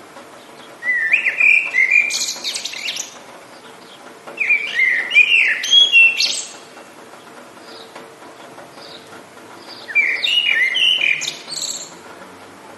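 A songbird singing three loud, warbling phrases of about two seconds each, separated by pauses of a few seconds, over a steady hiss of rain.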